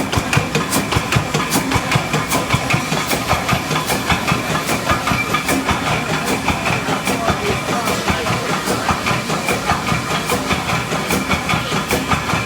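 Page two-cylinder dragline engine running steadily, its firing and valve gear giving an even, rhythmic beat with sharp clicks.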